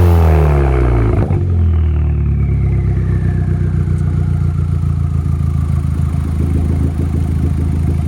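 Car engine through an aftermarket Milltek "race" exhaust: the revs fall back from a blip in the first second or so, then settle into a steady idle. A faint whine slides slowly down in pitch over the next few seconds.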